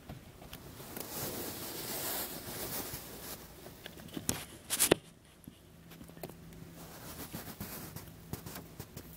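Freight cars rolling slowly past: a hissing rattle, two sharp clicks about four to five seconds in, then a low steady hum.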